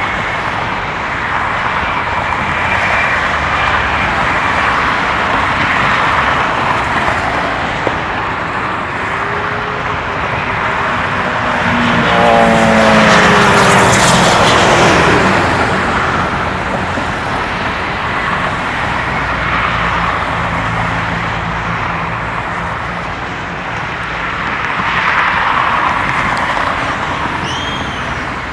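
Steady freeway traffic noise, with a louder vehicle passing about halfway through.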